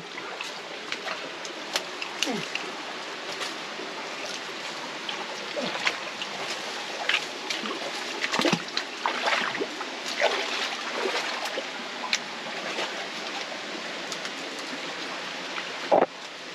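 Creek water running steadily, with scattered short splashes and knocks throughout.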